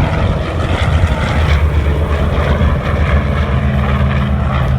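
Propeller-driven F4U Corsair fighter flying past, its Pratt & Whitney R-2800 Double Wasp radial engine droning loudly and steadily.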